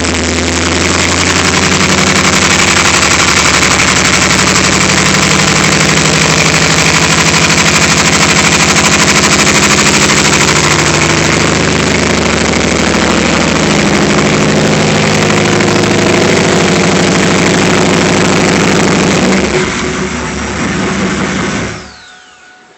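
1997 Pontiac Trans Am's V8 engine idling on its first start, with the misfire the owner reports, then shut off near the end.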